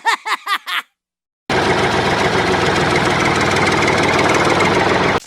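A short run of sounds whose pitch bounces up and down, then, after a brief pause, an engine running with a loud, fast, steady chugging like a tractor diesel, cutting off abruptly near the end.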